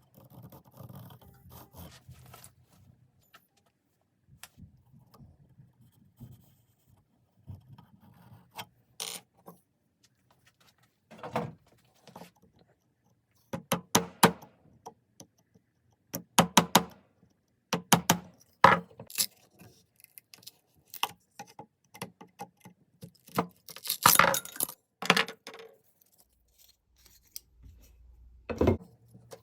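Workshop handling sounds: irregular bursts of clinks, knocks and short scrapes of metal tools and wood, each lasting under a second or two, loudest in the second half.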